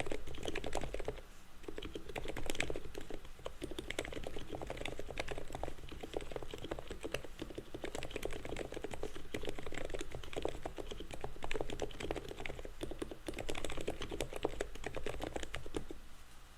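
Continuous fast typing on an ABKO HACKER K995P V3 mechanical keyboard with 45 g black switches that have been fully lubed, stabilizers lubed with Permatex, a taped PCB and Thinsulate sound-dampening foam. It is a dense, steady stream of keystrokes with most of their weight low down, and it stops just before the end.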